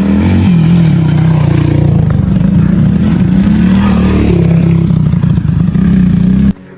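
A motor engine running steadily at a low, slightly wavering pitch, like a motorcycle close by; it cuts off abruptly near the end.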